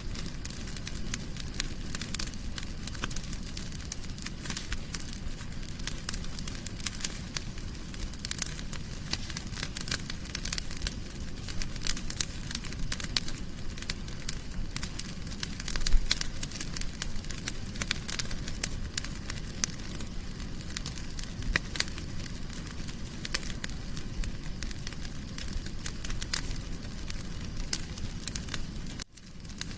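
Wood fire in a fireplace crackling, with many quick sharp pops over a steady low rumble of flames. A louder pop comes about halfway through, and the sound cuts out for a moment near the end.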